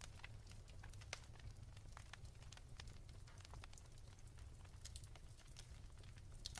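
Wood fire crackling softly: irregular small pops and snaps scattered through, over a low steady rumble.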